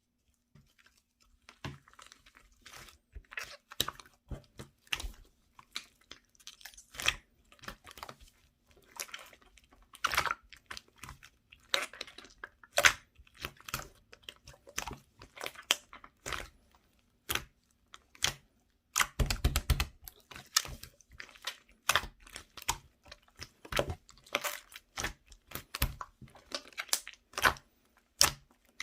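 Soft clay slime being squished, poked and stretched by hand, giving an irregular string of small wet pops and crackling clicks. About two-thirds of the way through the pops come thicker and louder, with dull low squelches.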